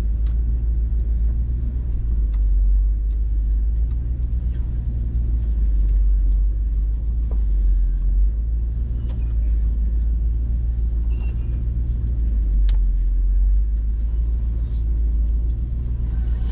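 Hummer H2's V8 engine and drivetrain rumbling at low, slow crawling speed, heard from inside the cabin, swelling and easing every couple of seconds. A few faint clicks sound over it.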